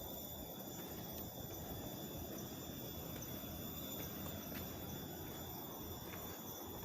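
Insects, crickets or cicadas, chirring in several steady high-pitched tones over a steady low rush of outdoor noise, with a few faint clicks.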